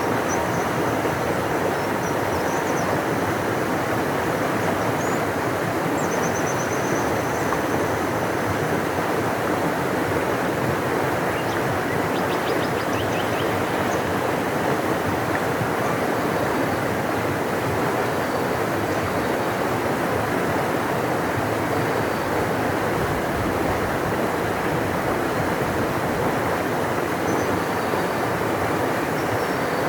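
Large river rushing steadily, a deep, even wash of water noise. Faint high bird chirps come through over it in the first several seconds and again about twelve seconds in.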